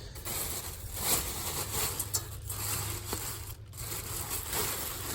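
Rustling and scraping of objects being handled and slid about, with a few light clicks and knocks.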